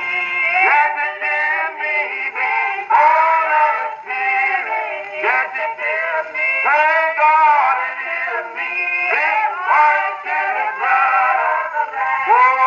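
A church soloist and congregation singing a slow hymn in harmony, with long held, sliding notes, heard from a 1920s 78 rpm record. The sound is thin and narrow, with little high end.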